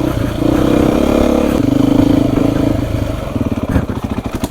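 Beta 350 RR four-stroke single-cylinder dirt bike engine running under throttle, then dropping to low revs about three seconds in, with a slow, evenly pulsing beat.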